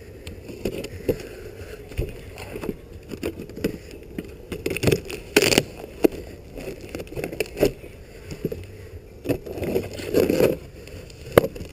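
Irregular handling noises: knocks, scrapes and rustles of a shipping box and its packaging being opened and handled.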